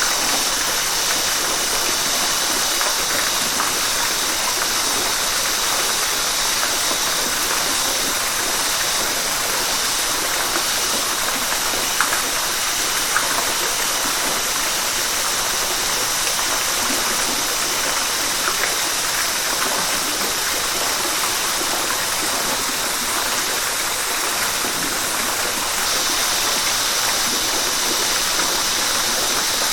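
River water rushing steadily over rocks, a continuous hiss with a few faint splashes; the rush grows slightly brighter near the end.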